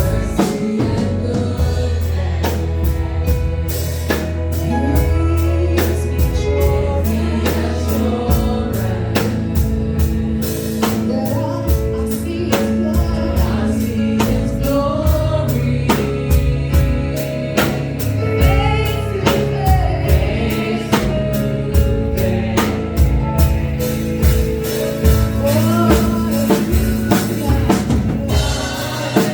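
Live gospel worship music: singers with drums, bass and keyboard playing a steady beat.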